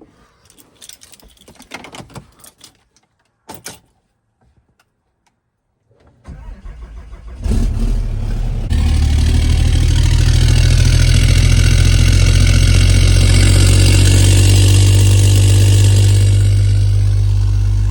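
A few faint clicks and knocks, then a Cummins turbo diesel in a pickup truck cranks, catches about seven seconds in and runs loud and steady, with a deep rumble and a high hiss.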